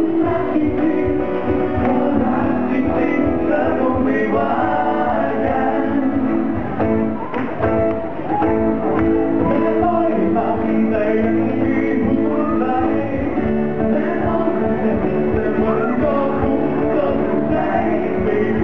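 Live amplified band music with singing, part of a medley of Thai pop songs. The band plays continuously under a sung melody.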